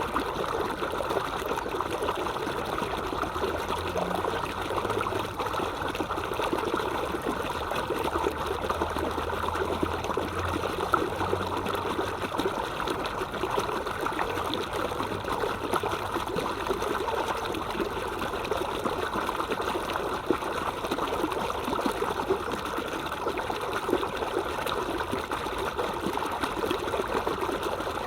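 Stream water flowing steadily, a continuous even rush with fine flickering detail.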